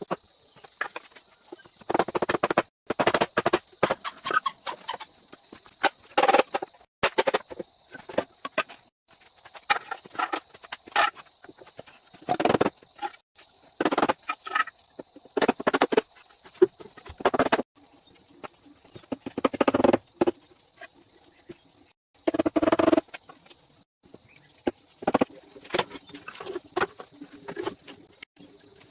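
Wood being worked with hand tools: a run of short knocks, taps and scrapes in quick clusters, broken off abruptly several times. A steady high insect drone runs underneath.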